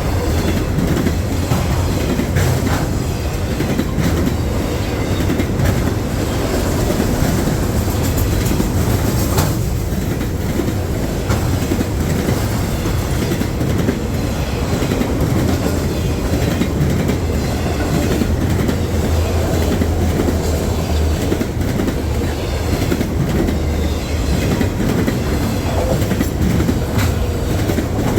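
Freight train cars rolling past in a steady rumble, their wheels clicking over the rail joints.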